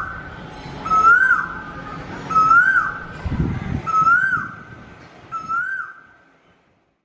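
A bird's whistled call repeated about every one and a half seconds, each note rising slightly and then dropping away. The calls fade out near the end.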